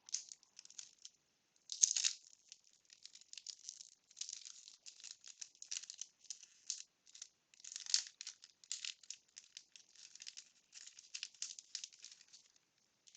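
1992 Bowman baseball cards from a freshly opened wax pack being handled and flipped through by hand: a run of quick, irregular paper flicks and rustles, with louder rustles about two seconds in and again about eight seconds in.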